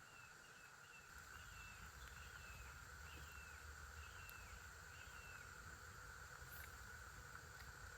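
Faint outdoor ambience: a songbird gives a run of about eight short down-slurred whistled notes over the first five seconds, over a steady high insect drone. A low rumble comes in about a second in and continues.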